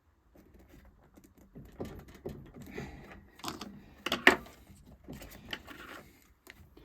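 Hands handling a two-stroke hedge trimmer's fuel pipes and plastic parts: irregular small clicks, taps and rustles, with the sharpest knocks about four seconds in.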